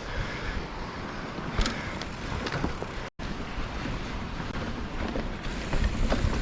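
Wind rushing on the microphone over lake water washing against the shore, a steady noise that cuts out briefly about three seconds in and grows louder near the end.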